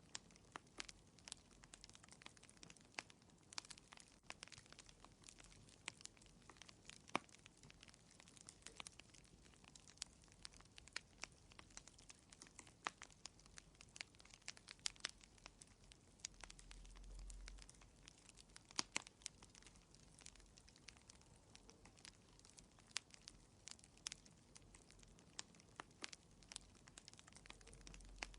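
Wood fire crackling in a fireplace: faint, irregular sharp snaps and pops, several a second, over a low hiss.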